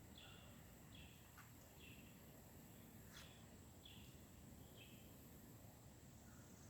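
Faint bird calls: short notes repeating about once a second over a steady high-pitched insect drone, with two faint clicks, one about a second and a half in and one near the middle.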